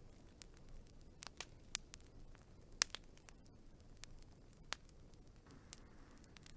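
Wood fire crackling: irregular sharp pops and snaps over a low steady rush, the loudest pop about three seconds in.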